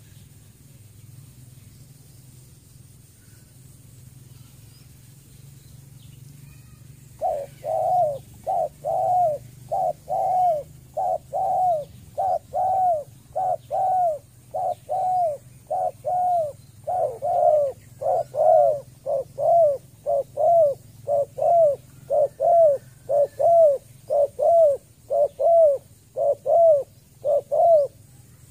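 A dove cooing: a long, even series of short hooting coos, a little under two a second, starting about seven seconds in and running on for some twenty seconds.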